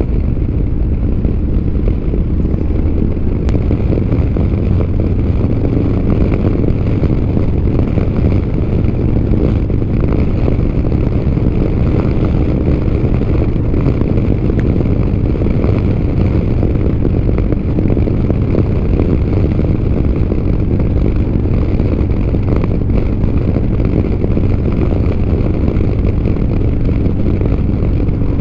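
Motorcycle under way: a steady engine drone mixed with wind noise buffeting the helmet-mounted microphone, with no change in pace.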